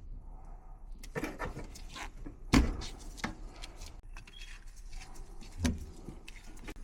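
Scattered clicks and knocks of hands and tools working on wiring inside a heating unit, with a sharp thump about two and a half seconds in and a duller knock near the end.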